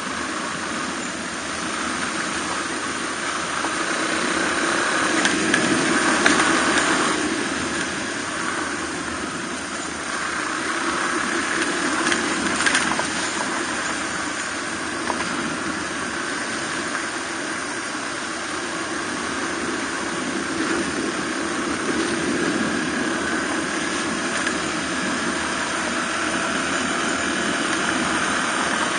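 Suzuki DR250R's single-cylinder four-stroke engine running under way, mixed with wind and road noise. The engine note swells a little twice, about a fifth of the way in and again near the middle.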